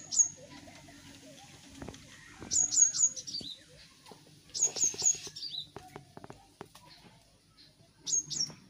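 Bird chirping in quick runs of three or four short, high notes that drop sharply in pitch, repeated four times.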